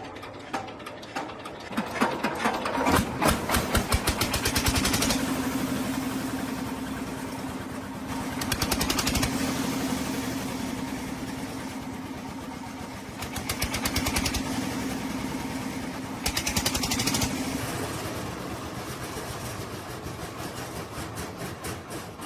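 A motor or engine running with a steady hum and fast, even clicking. It rises in level three times, then dies away.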